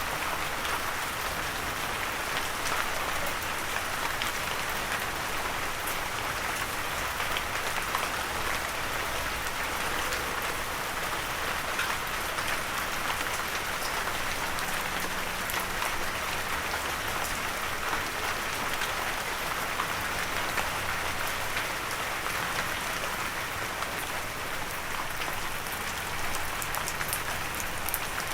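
Steady light rain falling, a continuous even hiss with scattered drop ticks and no thunder.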